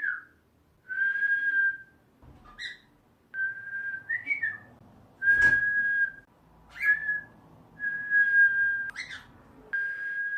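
Cockatiel whistling an imitation of the Japanese bush warbler's 'hoo-hokekyo' song: a held steady note followed by a quick up-and-down flourish, repeated about five times.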